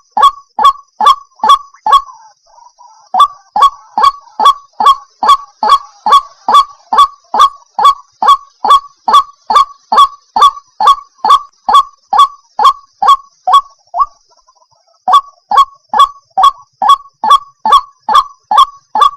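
White-breasted waterhen (ruak-ruak) calling: a long series of short, loud notes, each dropping in pitch, about two and a half a second. The series pauses briefly about two seconds in and again near the fourteen-second mark, with a faint steady hiss underneath.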